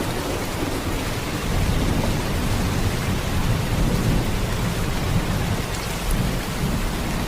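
Heavy rain falling in a steady downpour: an even hiss of drops with a deep, constant low rumble underneath.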